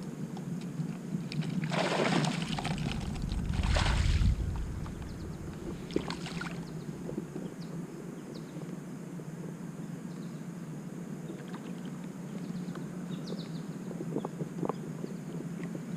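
Water splashing and sloshing at the side of a kayak in three short bursts, about two, four and six seconds in, over a steady low hum.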